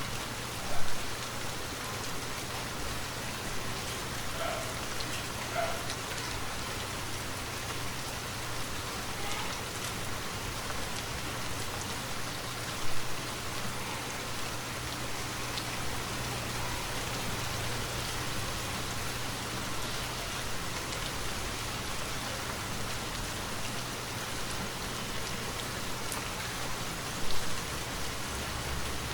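Steady, continuous rainfall on a forest canopy. Three brief louder hits stand out: about a second in, near the middle, and near the end.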